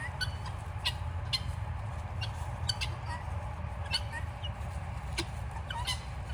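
A flock of guinea fowl giving scattered short, sharp calls, a few each second. This is a fairly quiet spell for guineas, over a steady low rumble.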